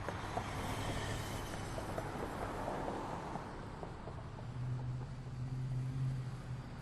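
City street traffic: a vehicle passes with a rush of tyre noise over the first few seconds, then a low engine hum swells about four and a half seconds in and fades near the end.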